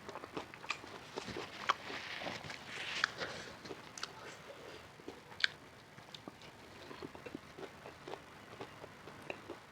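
Close-miked eating: a person chewing and biting food, with many short wet mouth clicks. A denser stretch of crunching comes around two to three seconds in.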